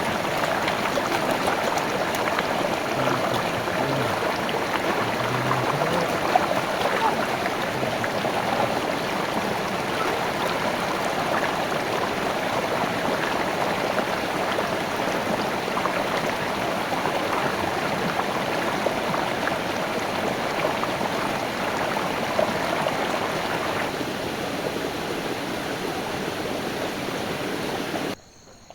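Stream water rushing and splashing steadily over rocks, cutting off suddenly near the end.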